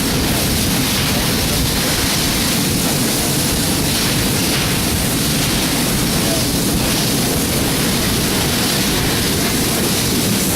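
Mazak HyperGear 510 CNC laser cutting machine running: a loud, steady rushing hiss that holds at one level with no breaks.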